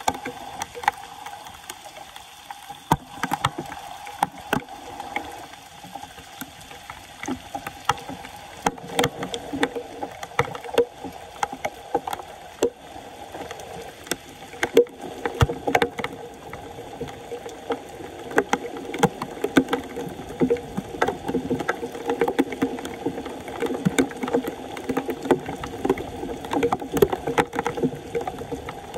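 Water splashing and sloshing, with frequent short knocks and splashes scattered throughout.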